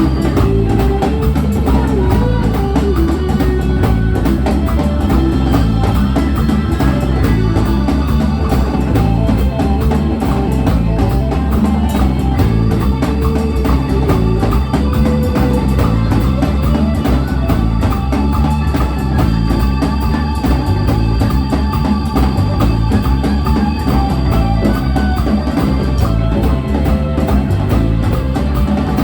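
A band playing music with a drum kit keeping a steady beat, bass and guitar.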